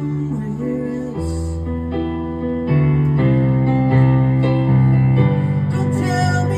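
Instrumental passage of a slow song played live, with sustained chords changing a couple of times and growing louder about three seconds in, without singing.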